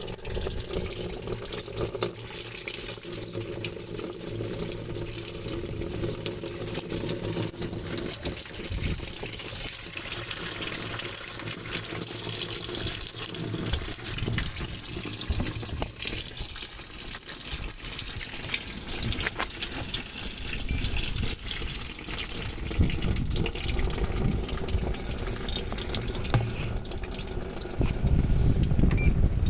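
Iris Ohyama IAW-T602E top-loading washing machine filling its tub: a steady gush of water pouring in.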